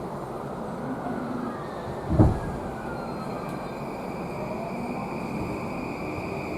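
E235-0 series electric train car running, heard on board: a steady rumble of wheels on rail with thin whining tones from the traction motors and inverter that glide and then hold steady. A single sharp thump about two seconds in stands out as the loudest moment.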